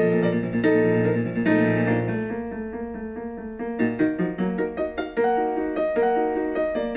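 Background piano music: a sequence of notes, fuller and sustained for the first couple of seconds, then lighter, quicker repeated notes.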